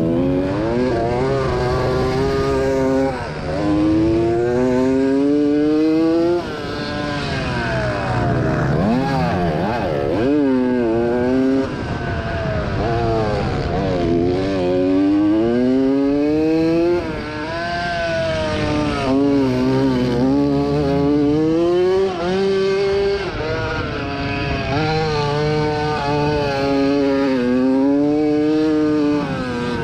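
Small motocross bike engine revving hard under race throttle. Its pitch climbs again and again, then drops sharply as the throttle is shut or a gear changes, several times over.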